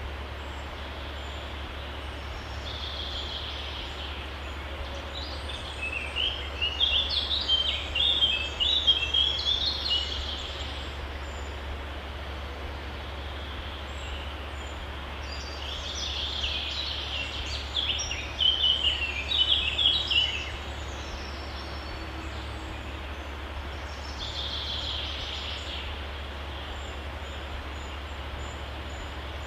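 Birds chirping in rapid high bursts of notes, three times, over a steady low hum and background noise.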